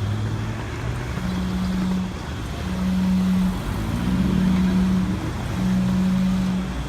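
Street traffic with a low steady hum that comes and goes in even pulses about every second and a half, and a rising engine note around the middle.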